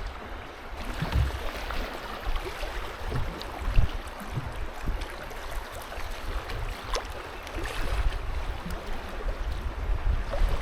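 River water rushing and splashing around a canoe, with wind rumbling on the microphone.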